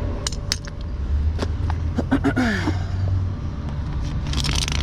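Tow truck engine running in a steady low rumble, with sharp metallic clicks and a clatter near the end as chains and hooks are handled.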